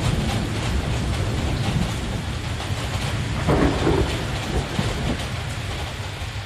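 Heavy rain falling steadily with deep rolling thunder rumbling underneath. A louder swell of thunder comes about three and a half seconds in, and the whole storm begins to fade near the end.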